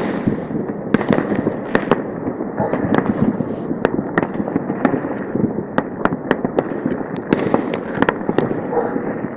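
Many New Year fireworks and firecrackers going off across a city without a pause: a continuous rumble of bangs with frequent sharp cracks and pops on top.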